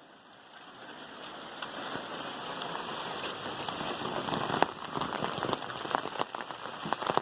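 Rain pouring down: a steady hiss of rainfall with many small drop ticks, fading in over the first two or three seconds.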